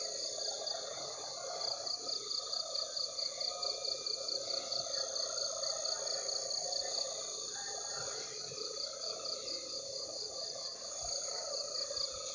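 Night insects: a cricket chirping in a steady rhythm of about four pulses a second over a constant high buzz of other insects.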